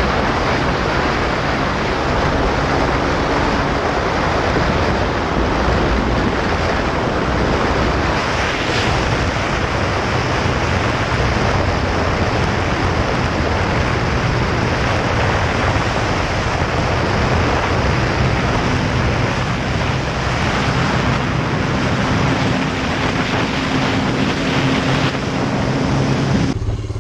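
Motorcycle ridden at highway speed: steady heavy wind roar on the microphone, with the engine's drone faint underneath.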